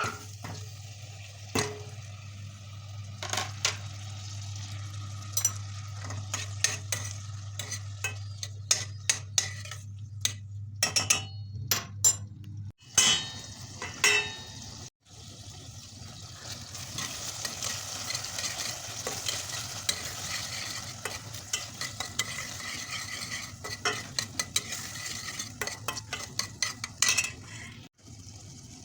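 A utensil stirring food in a pan, with repeated clinks and scrapes against the pan and food frying with a steady sizzle. A steady low hum runs under the first half and stops about halfway through.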